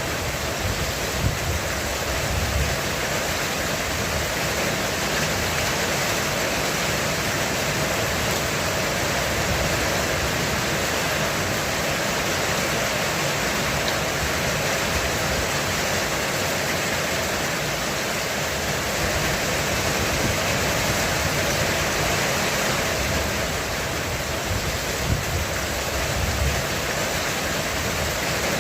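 Heavy rain drumming steadily on a roof, an even unbroken hiss. Low rumbles of distant thunder swell about two seconds in and again near the end.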